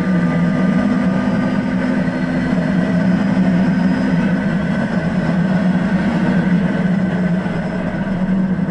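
Lotus Exige's engine pulling hard at speed down a straight, heard from inside the cabin, its note held almost steady, with wind and road noise around it.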